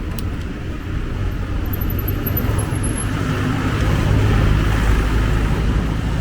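Street traffic: passing road vehicles running with a steady low rumble that swells a little partway through.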